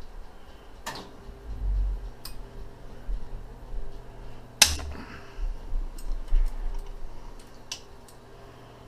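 Hand tools and engine parts being handled during engine disassembly: a few sharp clicks and knocks, the loudest about halfway through, with a dull thump about two seconds in.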